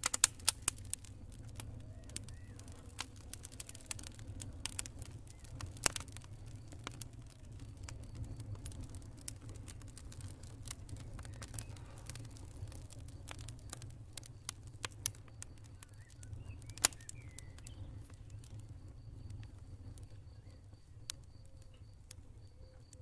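Wood campfire crackling, with sharp pops that come thick in the first few seconds and thin out later, over a low steady rumble of burning. In the second half a faint high pulsing cricket chirp joins in.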